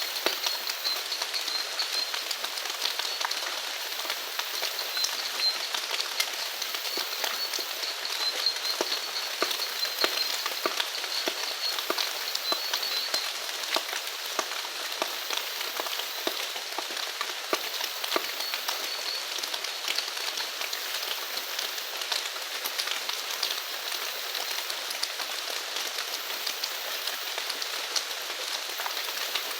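Steady rain falling on surfaces, with many individual drops ticking sharply. A faint, high, pulsing call sounds on and off behind it.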